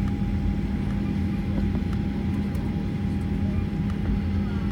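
Steady cabin noise of a Boeing 737-800 taxiing with its engines at idle: an even low hum with a faint steady whine above it.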